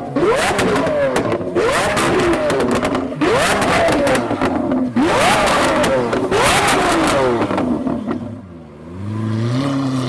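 Lamborghini Aventador S's V12 through an aftermarket Fi exhaust, free-revved sharply over and over, five or six quick blips, each pitch rising and falling back, with popping and crackling on the overrun. Near the end the revs drop away and it settles to a steady idle.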